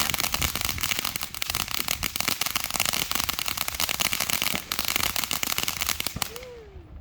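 Fireworks crackling: a dense, rapid string of sharp pops and crackles, like a firecracker string or a crackling ground firework, that stops suddenly about six seconds in.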